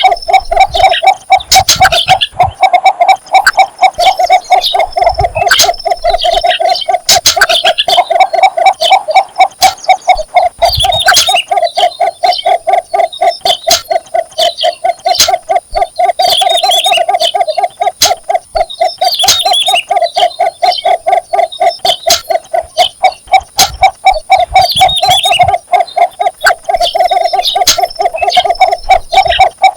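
Cinnamon bittern giving its mating call: an unbroken run of low, clucking notes repeated several times a second. Fainter, higher chirps and clicks come and go over it.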